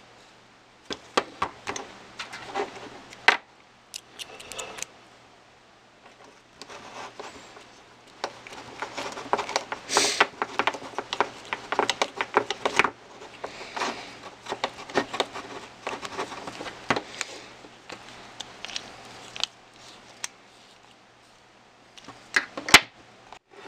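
Irregular clicks and rattles of small plastic and metal RC truck parts and a hex driver being handled, in bursts with a dense stretch around the middle.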